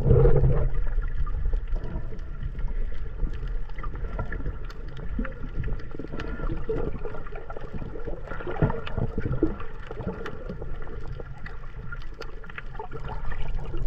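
Sea water sloshing and gurgling around a camera during snorkeling, heard as a steady low rumble with small scattered splashes and clicks.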